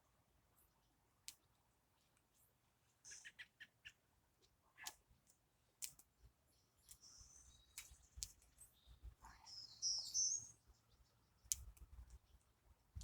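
Birds chirping faintly in the background, with scattered light clicks; the loudest call comes about ten seconds in.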